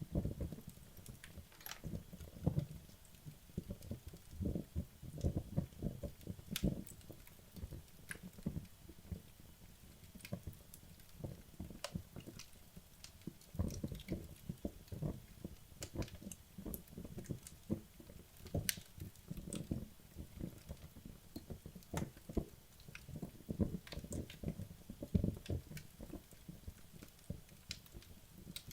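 Wood logs burning in a fireplace, crackling with frequent irregular soft pops and occasional sharper snaps.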